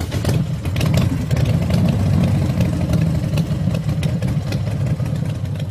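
A motorcycle engine running loudly with a rough, steady rumble.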